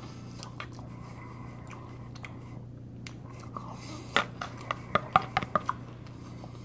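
Close-up chewing of a mouthful of salmon poke, over a steady low hum. A little past halfway comes a quick run of sharp clicks as a metal fork digs into the clear plastic bowl.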